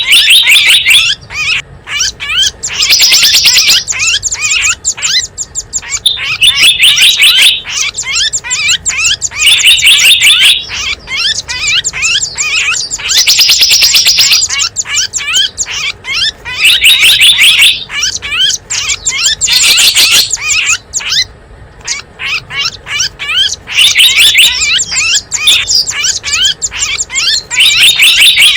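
Bird-lure recording of small wild songbirds chirping and trilling: dense, high chirps with loud bursts of fast trills recurring every few seconds.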